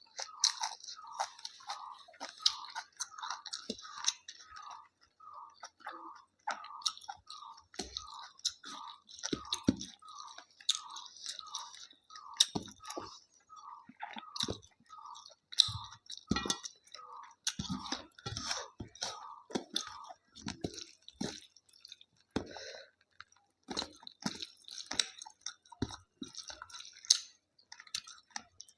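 Close-miked chewing of a mouthful of rice, chicken and salad, in an even rhythm of about two chews a second that loosens about two-thirds of the way through. Sharp mouth clicks and an occasional crunchy bite come through between the chews.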